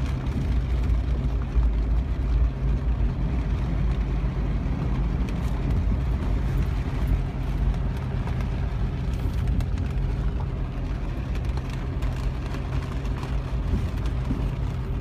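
Car engine and road noise heard from inside the cabin while driving: a steady low hum with an even rushing noise.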